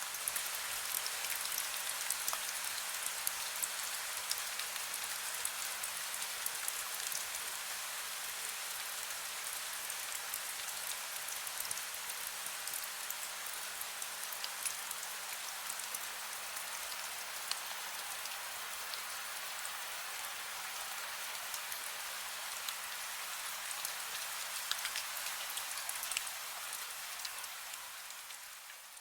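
Heavy rain falling steadily, a dense hiss of drops pattering on a surface with many small individual drop ticks. It fades out over the last few seconds.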